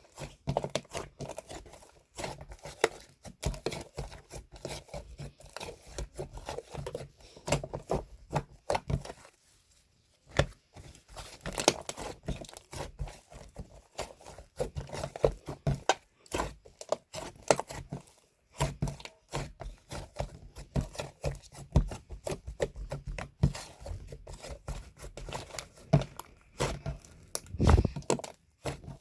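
Irregular close-up handling noises: crinkling and tearing with short taps and knocks, with a brief pause about ten seconds in.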